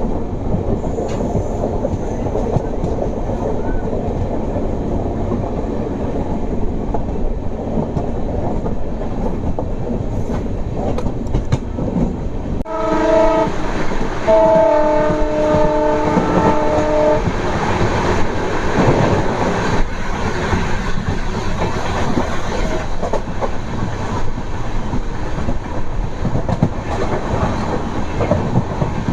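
Passenger train running at speed, with a steady rumble and clatter of wheels on rail. About 13 seconds in, the WDP 4D diesel locomotive at the head of the train sounds its multi-tone horn twice: a short blast, then a longer one of about three seconds.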